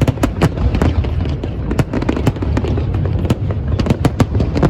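Aerial fireworks going off in quick succession: many sharp bangs and crackles over a continuous low rumble.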